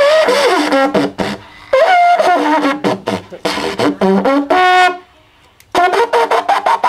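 Buzzy, horn-like wind instrument playing a fanfare of short gliding notes. A longer held note comes about four and a half seconds in, then a brief pause, and more notes near the end.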